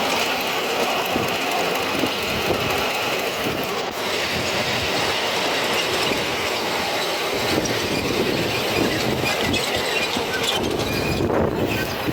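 Miniature railway train running along the track, its wheels clicking over the rails with some wheel squeal.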